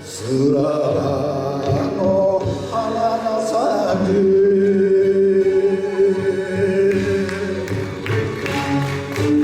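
Music with a male voice singing; from about four seconds in, one long held note.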